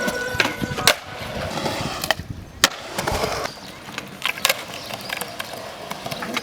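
Skateboard wheels rolling on concrete, broken by several sharp clacks of the board striking the ground and obstacles.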